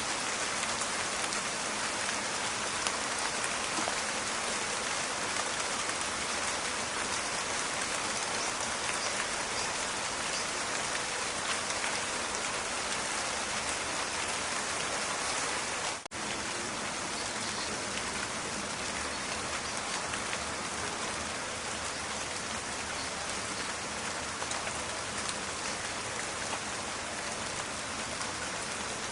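Steady rain falling in a forest, a dense crackling patter of drops, with a brief dropout a little past halfway.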